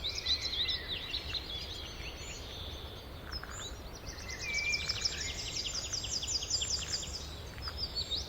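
Songbirds singing in an evening garden, with several fast, high trills of quickly repeated notes overlapping, one longer trill in the middle and more near the end. A steady low background rumble runs underneath.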